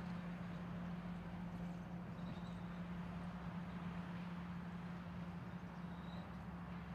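Steam locomotive standing at rest, its machinery keeping up a steady low hum under a faint hiss, with two brief faint high tones about two seconds in and again near the end.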